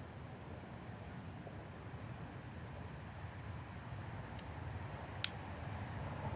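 Insects trilling steadily at a high pitch over a low background rumble, with a single sharp click about five seconds in.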